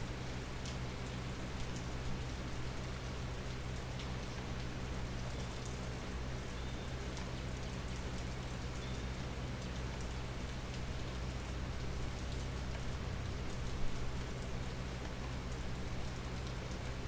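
Steady rain falling, with scattered individual drops ticking through a constant hiss.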